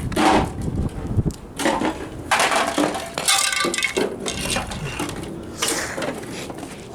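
A speaker being smashed: a string of sharp knocks with clattering and clinking of broken hard parts, some strikes ringing briefly.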